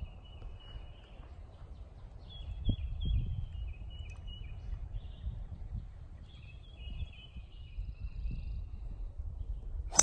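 A songbird singing short repeated phrases of stepped chirps in three spells, over a low rumble. Right at the end comes one sharp crack: a golf club striking the ball off the tee.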